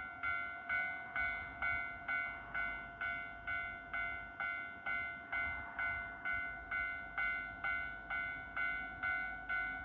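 Railway level-crossing warning bell ringing: an electronic two-tone ding repeating steadily at just over two strikes a second, each strike fading before the next, signalling an approaching train.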